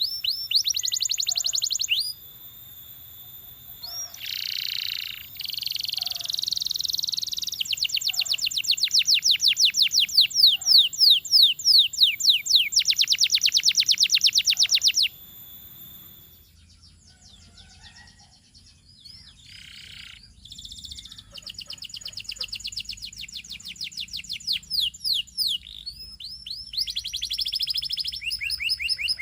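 Canary singing: long, rapid trills of quickly repeated high notes, changing from one trill to the next. The song goes quieter and sparser a little past halfway, then picks up again with more fast trills.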